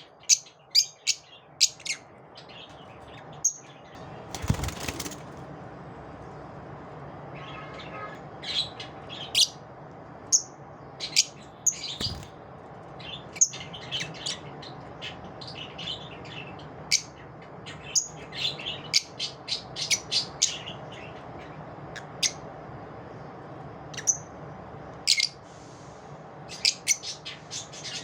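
Lovebirds chirping: many short, sharp, high calls, often in quick runs, over a steady background noise. A brief rustling burst about four and a half seconds in.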